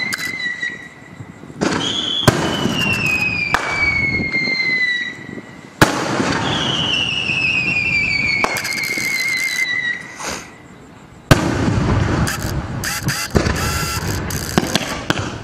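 Whistling fireworks going up one after another. Each gives a long shrill whistle falling slowly in pitch over about three seconds, over a rushing hiss of sparks. Sharp loud bangs mark the starts, and the last part breaks into a rapid crackle of many small pops.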